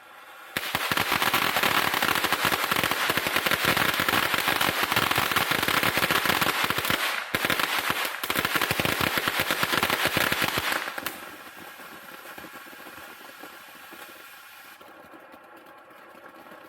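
Consumer firework finale going off as a dense, rapid crackle of pops. It starts about half a second in, runs for roughly ten seconds with a couple of brief gaps, then stops, leaving a quieter steady hum.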